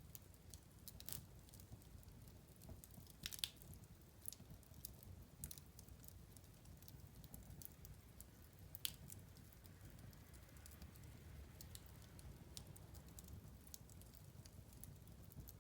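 Wood fire crackling in a fireplace: scattered sharp snaps and pops over a faint low rumble, the loudest pops about three and a half seconds and nine seconds in.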